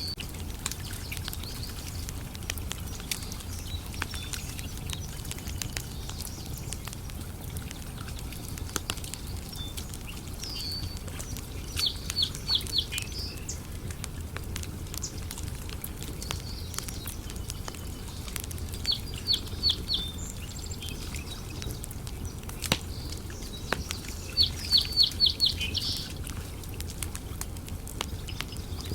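Wood campfire crackling with scattered sharp pops over a low steady rumble. A bird calls three times, each a quick run of four or five high notes.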